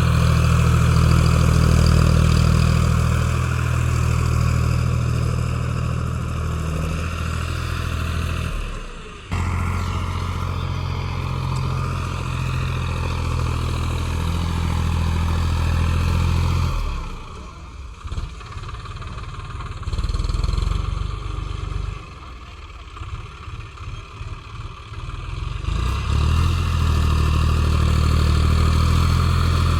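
Tractor engine running steadily. It breaks off abruptly about nine seconds in and picks straight up again, then drops to a quieter, uneven sound for several seconds in the second half before coming back at full level.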